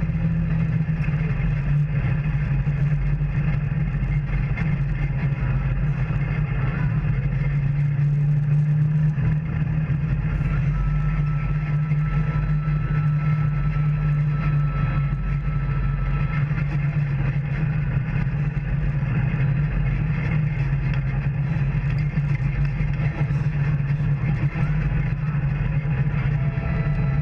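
Off-road vehicle engine running steadily while under way on a trail: a constant low drone, with the revs holding roughly even throughout.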